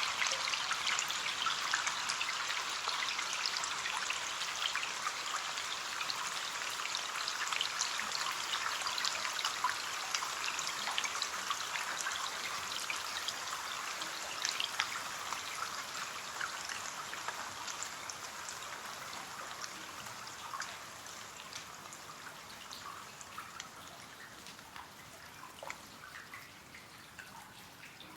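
Rain pattering on a window pane as a dense hiss of small drops, easing off and growing quieter over the last several seconds until only scattered separate drops are heard.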